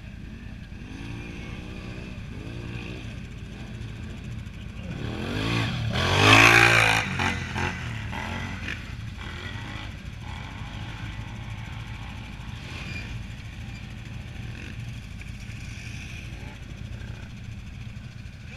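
Can-Am Renegade 1000 ATV's V-twin engine revving, with two short blips early on and a hard rev that swells to a loud peak about six seconds in and then falls back to steady running.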